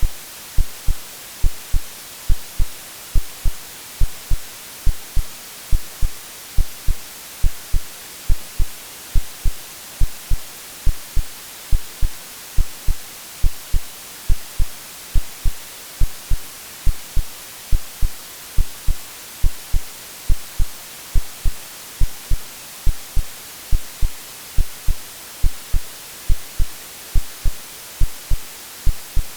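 Synthetic heartbeat, a steady low double thump (lub-dub) about once a second, over a constant hiss of white noise.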